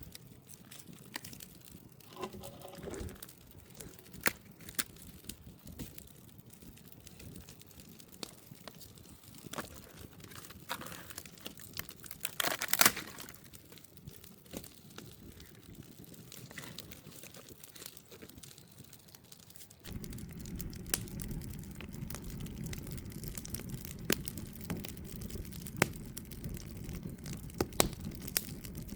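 Crinkling and rustling handling noises with scattered sharp clicks, louder for a moment about thirteen seconds in; from about twenty seconds in a steady low background noise sets in.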